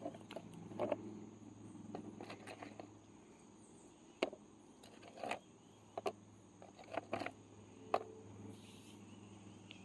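Animals eating food that has just been put out: scattered short clicks and crunches at irregular moments over a faint steady hum.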